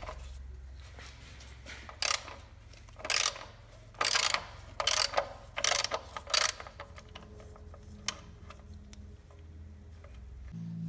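A wrench working the 12 mm hex oil drain plug under a Fiat 500 1.2, in about seven short bursts of clicks between two and eight seconds in.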